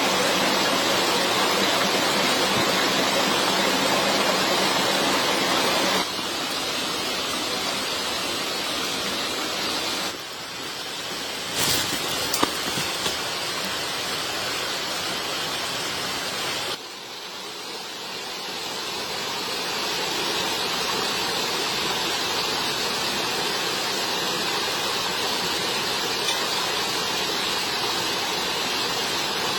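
Steady rushing of water with no tone in it. It drops abruptly in level about six seconds in and again around ten and seventeen seconds. A couple of brief sharp clicks come near twelve seconds.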